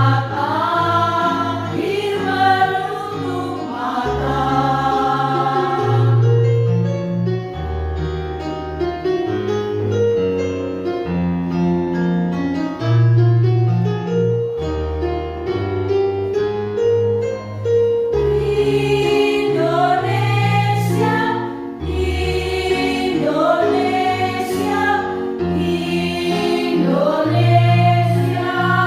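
Choir singing with instrumental accompaniment. The voices drop out for about twelve seconds in the middle, leaving the accompaniment playing an interlude alone, then the choir comes back in.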